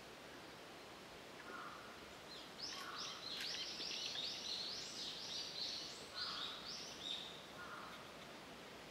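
A songbird sings a quick run of repeated high chirping notes, starting about two and a half seconds in and lasting about four and a half seconds. A lower, shorter bird call repeats every second or so, over steady outdoor background hiss.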